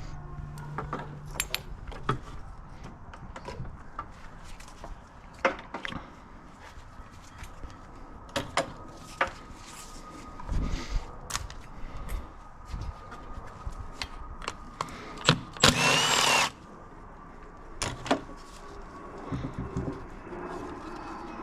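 Tools clicking and knocking on metal engine parts while a Honda CBR600RR engine is taken apart, with scattered sharp taps throughout. About two-thirds of the way in there is one loud burst of noise lasting about a second.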